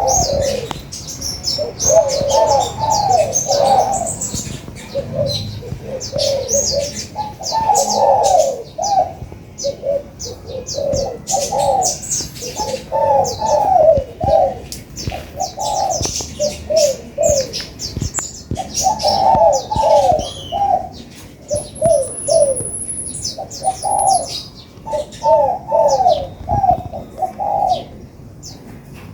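Spotted doves cooing in repeated low phrases every few seconds, over a steady run of rapid high chirps from small birds.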